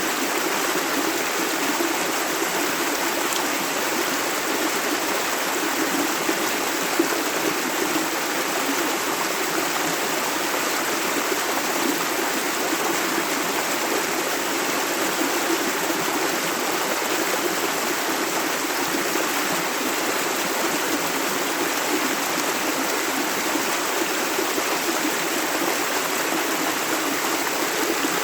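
A shallow river running steadily over stones, a continuous rushing and babbling with a few brief splashes about six to seven seconds in.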